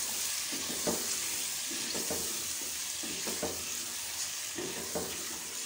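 Raw chicken pieces and onions sizzling in hot oil in a pressure cooker, stirred with a wooden spoon that scrapes the pot a few times. The chicken has just gone in and is starting to fry.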